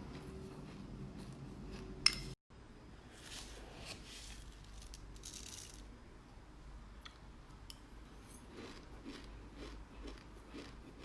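Close-up chewing and crunching of black sesame seeds: a run of small crackling clicks and short crunchy bursts, with one sharp click about two seconds in followed by a brief dropout of all sound.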